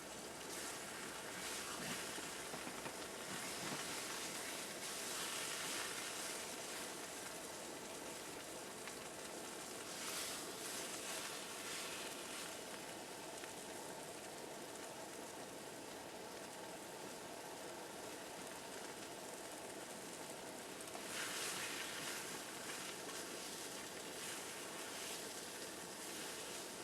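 A steady sizzling hiss over a campfire, growing a little louder a few times.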